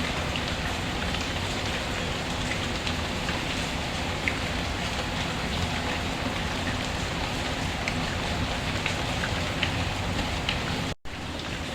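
Steady rain falling, an even hiss with scattered small drop ticks. The sound cuts out for an instant near the end, then resumes.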